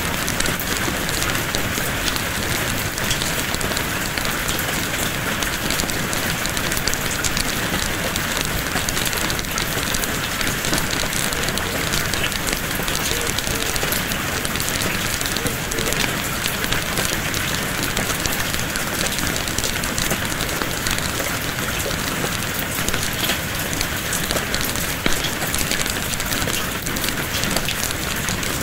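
Steady rain with a wood fire crackling in a fireplace: an even hiss dotted with small pops and snaps.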